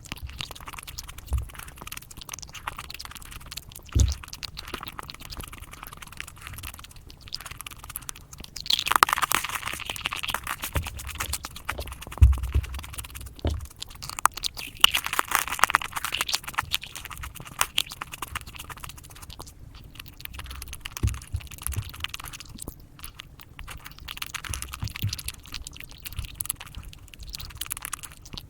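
Close-miked chewing and crunching of chocolate, sped up, in rapid clicks and smacks. Louder, denser crackly stretches come about nine seconds in and again about fifteen seconds in.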